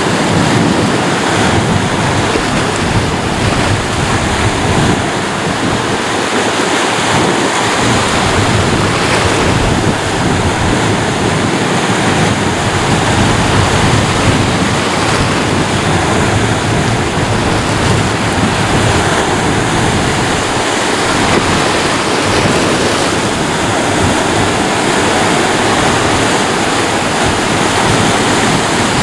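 Ocean waves breaking and washing on a shore, a continuous surf wash that swells and eases gently, with wind rumble on the microphone.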